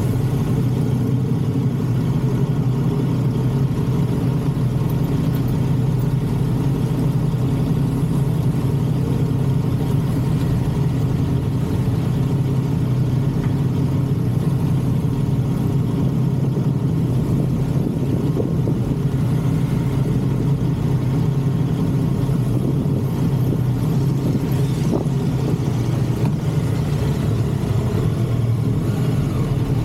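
Motorcycle engine running at a steady pace on the road, its pitch holding nearly level without big rises or drops in revs.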